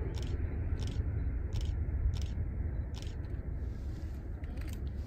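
A train rolling past with a steady low rumble and a regular high click about every two-thirds of a second.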